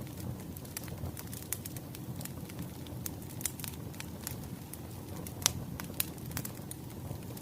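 Wood fire crackling: a steady low rush with irregular sharp pops and snaps, two louder pops about five and a half and six seconds in.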